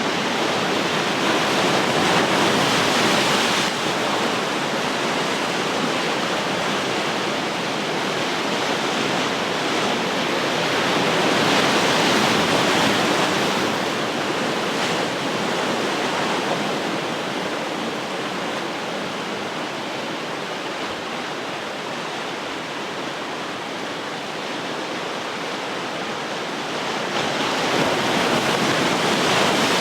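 Ocean surf: a continuous wash of waves. It swells louder three times as waves break, about a second in, around eleven seconds in, and near the end.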